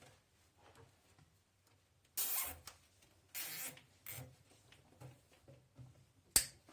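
Short rasping, zipping noises of a wire being tied to the drum of a top-loading washing machine: two longer rasps a couple of seconds in, then smaller rustles, then a single sharp click near the end.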